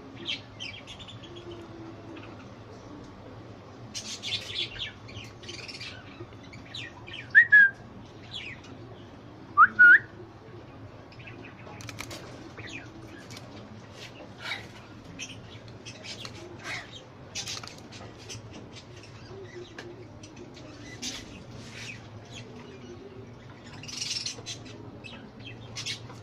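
Pet budgerigars chirping and chattering in short scattered calls, with two loud, short rising whistles about seven and ten seconds in.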